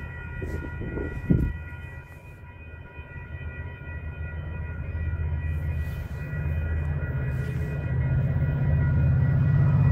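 Approaching Metra diesel commuter train, its low locomotive rumble building steadily louder, over a set of steady high ringing tones from the grade-crossing warning bells. A short, sharp sound about a second in.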